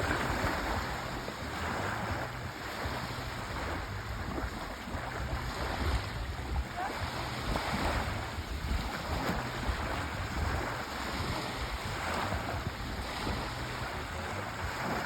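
Sea waves washing ashore: a continuous rushing surf that swells and eases every couple of seconds.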